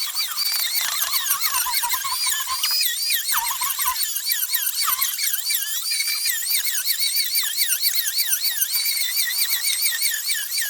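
A dense chorus of many small birds chirping and twittering at once, with a few faint knocks in the first few seconds.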